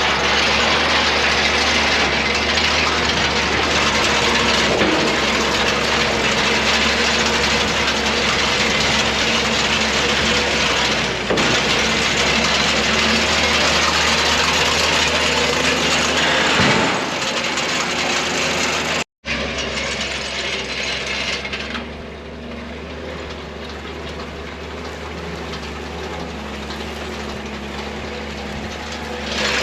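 Farm hay machinery running: an engine's steady hum under a continuous mechanical clatter of gears and chains. The sound cuts off sharply about two-thirds of the way through and resumes quieter.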